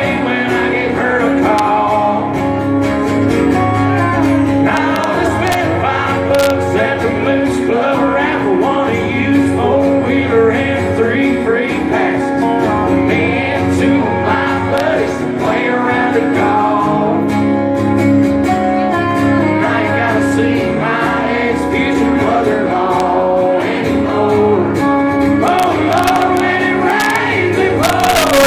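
Live country band playing with guitars and singing.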